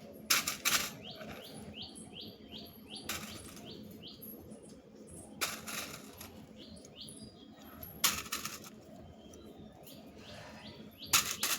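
Short rushing bursts of noise every two to three seconds, with a small bird chirping runs of quick falling notes between them.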